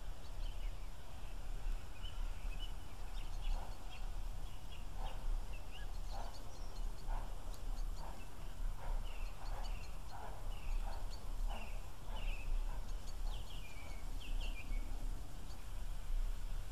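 Birds singing in short, repeated chirps over a low steady rumble.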